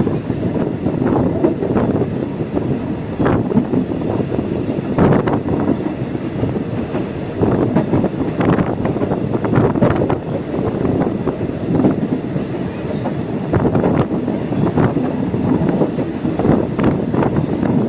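Passenger train running along the track, heard from inside the carriage: a steady rumble with irregular knocks and clatter from the wheels over rail joints.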